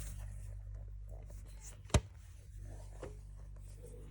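Faint handling noises with one sharp click about two seconds in, over a low steady hum.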